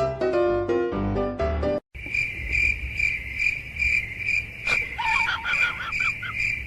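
Background music with piano-like notes cuts off about two seconds in. Then a cricket chirps steadily, about two to three chirps a second. A few short wavering animal calls come through faintly near the end.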